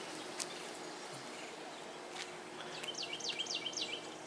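A songbird singing a repeated phrase of about six quick, high, down-slurred notes, heard once about three seconds in and lasting just over a second, over faint outdoor background noise.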